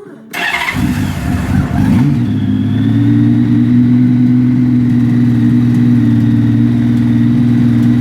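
Cold 2000 Honda Valkyrie's 1520 cc flat-six started on choke: it fires about a third of a second in, runs unevenly for a couple of seconds, then settles into a steady fast idle.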